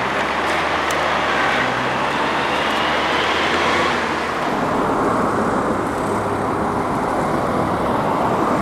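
Road traffic passing: a steady rush of tyre and engine noise, with a low engine hum for the first few seconds.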